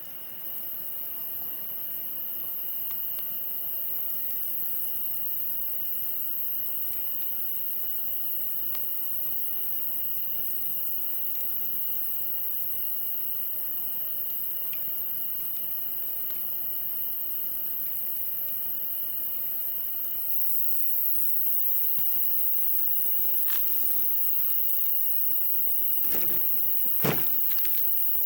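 Crickets chirring steadily, with a few sharp cracks late on.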